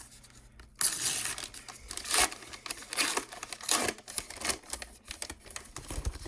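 Hockey card pack wrapper being torn and crinkled by hand, in irregular rustling bursts starting about a second in.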